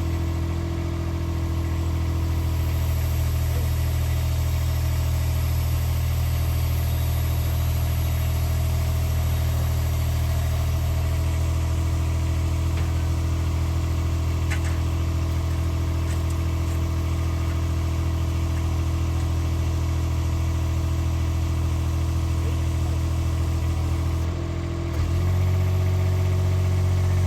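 An engine running steadily. Near the end it dips briefly, then settles at a slightly louder, higher note, as if taking on load or being throttled up.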